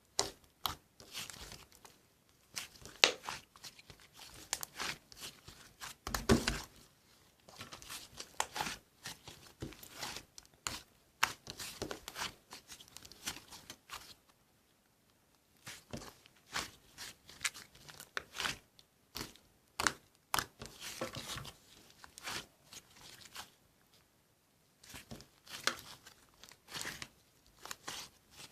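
Irregular crinkling and crackling handling noises, short sharp rustles coming in quick clusters, with a pause of about two seconds past the middle.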